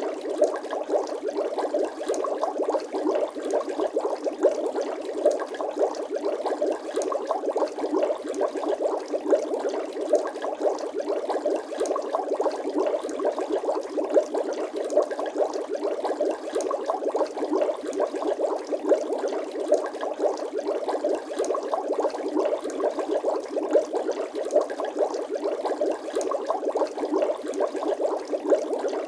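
Bubbling water sound effect: a steady, dense stream of small bubbles popping and gurgling with no pause or change.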